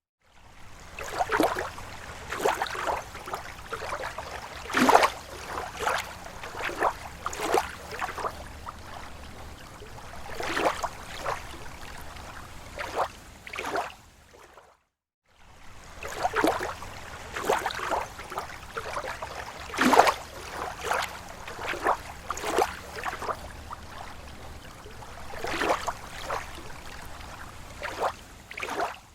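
Lake water lapping at the shore: irregular small splashes and gurgles over a steady wash, with a brief drop to silence about halfway through.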